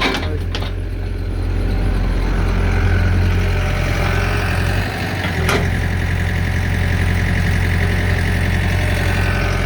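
Heavy diesel engine of an excavator loading a dump truck, running steadily with a deep even hum. A single sharp knock comes about five and a half seconds in, with a few lighter clicks right at the start.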